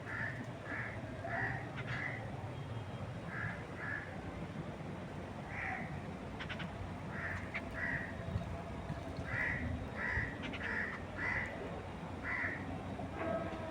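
A bird calling in short repeated notes, in runs of two to five with pauses between, over a steady low rush of wind through trees.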